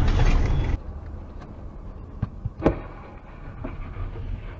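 Dashcam audio of steady vehicle road noise that cuts off abruptly under a second in. A quieter stretch follows, with a few sharp knocks.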